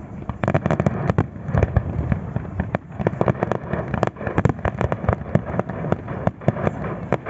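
Fireworks display going off: a rapid, dense series of sharp bangs and pops over a continuous low rumble.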